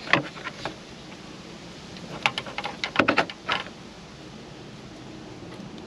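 Light clicks and taps from test probes and wiring being handled at the connector: a few near the start, then a quicker run from about two to three and a half seconds in.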